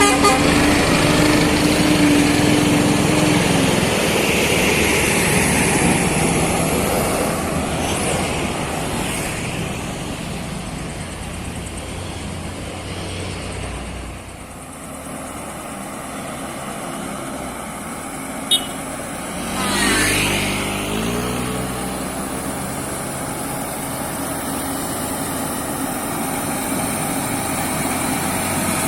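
Road traffic: vehicles passing in a steady wash of engine and tyre noise that swells and fades. About twenty seconds in, one vehicle's engine climbs in pitch as it goes by, just after a sharp click.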